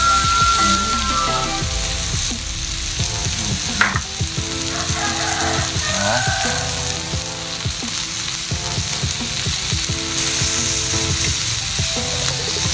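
Beef sizzling and frying over high heat, a steady crackling hiss with small pops, with background music playing under it.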